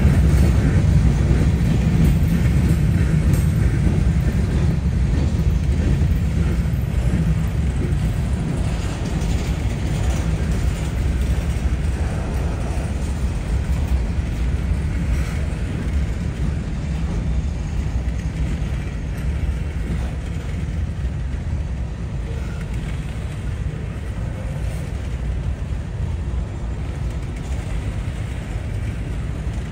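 Freight train passing, a steady low rumble of the train that slowly eases off.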